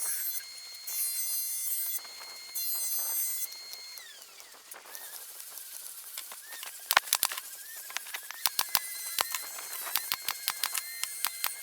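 A small electric tool motor running at a steady high pitch, then winding down about four seconds in, with sharp clicks and taps on wood, most of them in the second half.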